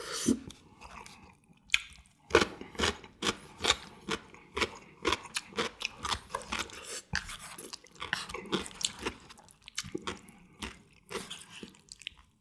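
A person chewing a mouthful of jjajangmyeon noodles in black bean sauce close to the microphone: a long run of quick, sharp mouth clicks, a few each second, starting about two seconds in.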